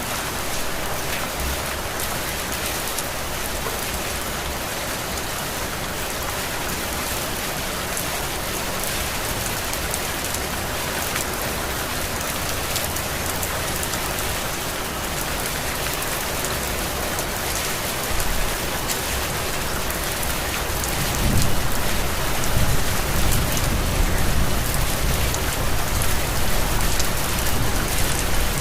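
Heavy rain falling steadily, with fine patter of drops over a dense hiss. About two-thirds of the way through, a low rumble of thunder swells in and rolls on to the end.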